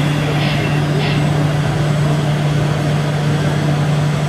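Remote-control model truck's engine-like drone idling steadily, with a constant low hum.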